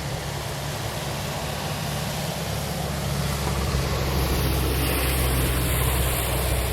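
A motor vehicle engine running steadily with a low hum, growing louder about halfway through.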